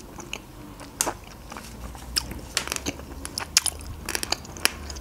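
Close-miked chewing of a juicy grapefruit segment: a run of short, sharp wet mouth clicks and squelches at an uneven pace, with no speech.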